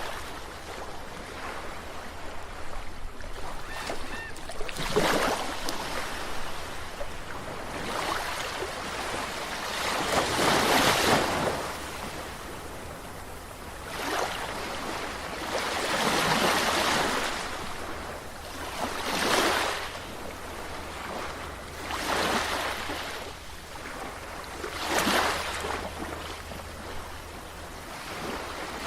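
Sea waves washing in and breaking against the shore, one surge of foaming water every two to three seconds, the loudest about ten seconds in.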